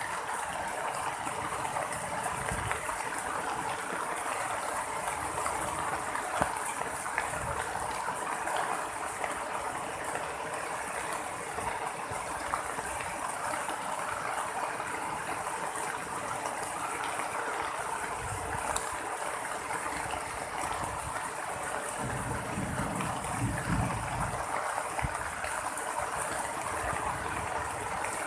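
Rain falling steadily, a continuous hiss of rainfall and running water, with a few brief low rumbles in the last third.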